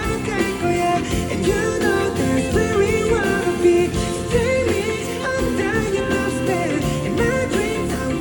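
Live K-pop ballad-pop performance: a male singer's voice gliding over full band backing.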